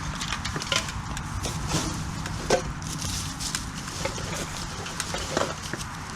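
Dry twigs and woodland debris crackling and snapping underfoot, a scatter of sharp cracks with one louder snap about halfway through, over a low steady rumble.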